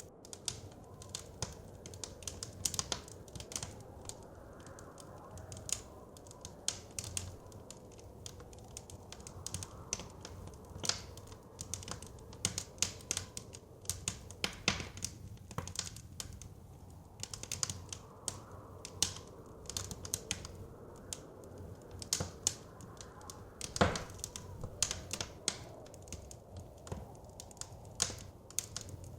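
Wood fire crackling, with irregular sharp pops and snaps, over a low, steady rush of wind. One louder crack stands out about 24 seconds in.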